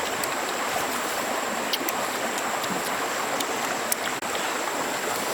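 Steady rushing of running water, like a nearby stream, with a few faint clicks over it.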